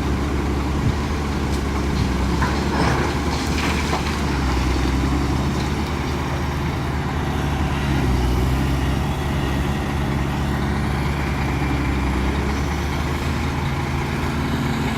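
Heavy earth-moving diesel engines running steadily under load, with a short spell of knocking and rattling about three seconds in.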